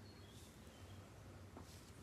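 Near silence: a faint steady low hum, with a few faint short high chirps early on and a couple of light ticks.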